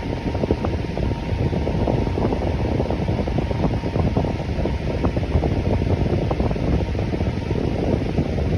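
Electric fan running steadily: a continuous, deep rushing whoosh with a slight flutter.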